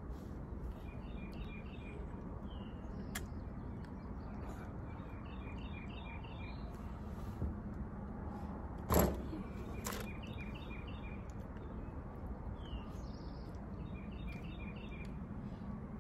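A songbird sings the same short phrase over and over, about every four seconds: a quick run of five or six high notes, then a single slurred note, over a steady outdoor background hiss. About nine seconds in there is one sharp knock, the loudest sound.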